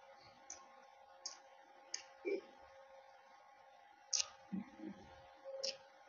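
Close-miked mouth sounds of chewing a mouthful of samosa with the lips closed: scattered soft wet clicks and lip smacks, about one a second, the loudest about four seconds in.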